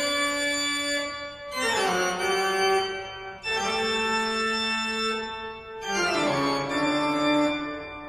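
Music: four sustained organ-like keyboard chords, each held about two seconds before the next.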